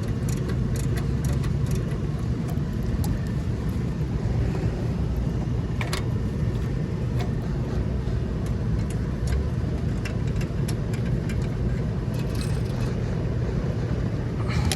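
Steady low rumble of outdoor background noise, with a few faint clicks and taps scattered through it.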